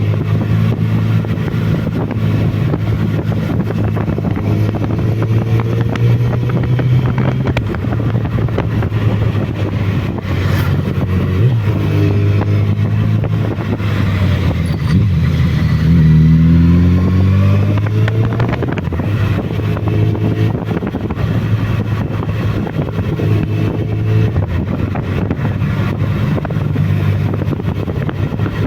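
Motorcycle's inline-four engine running while riding, with wind rushing over the microphone. The engine pitch climbs sharply about halfway through, with smaller rises earlier and later.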